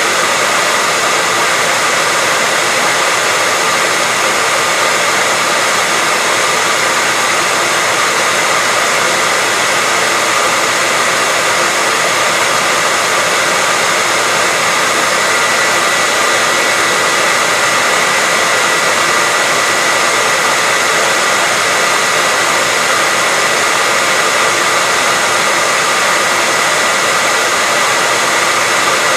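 Hair dryer blowing steadily: a loud, unchanging rush of air with a faint high whine from the motor.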